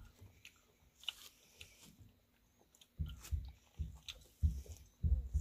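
Close-up chewing of juicy rambutan flesh: faint mouth clicks at first, then louder, closely spaced chewing sounds from about halfway through.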